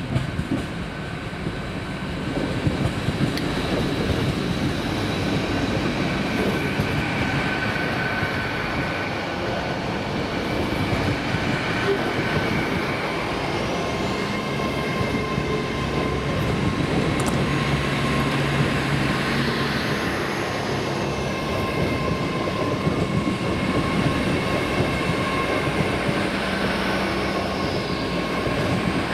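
A train running past on the line, a steady rumble with several thin, steady high-pitched tones whining over it.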